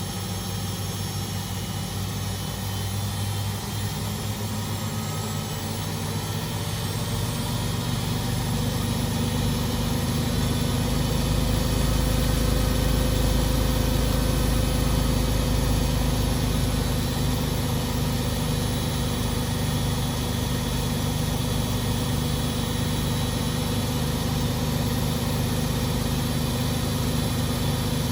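Beko WMD 46160 washing machine running, its motor and drum giving a steady mechanical hum with vibration. It grows louder over the first dozen seconds or so, eases slightly, then holds steady.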